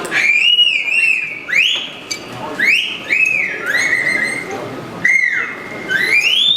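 Vocal mimicry of birdsong: a string of whistled calls, each swooping up and then held or falling away, about one a second.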